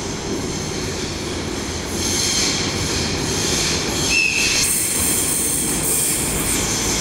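Electric commuter train pulling into an underground station platform and running past close by, its noise swelling about two seconds in. A brief high squeal from the wheels or brakes comes about four seconds in, followed by a hissing rush as the cars go by.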